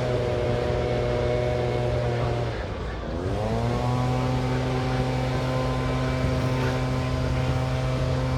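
A motor running at a steady speed. About two and a half seconds in, its pitch sags, then climbs back within about a second and holds steady again.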